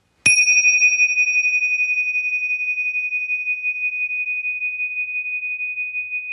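A single high ringing tone that starts sharply just after the start and holds steady on one note, slowly fading.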